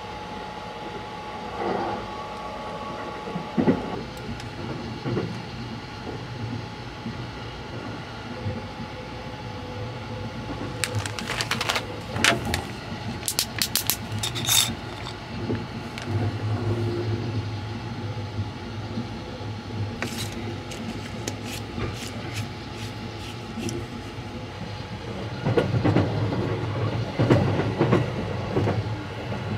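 Steady rumble of the Sunrise Seto sleeper train running, heard from inside the compartment. About halfway through come a run of sharp clicks as the screw cap of an aluminium bottle-can is twisted open, and the train noise grows louder near the end.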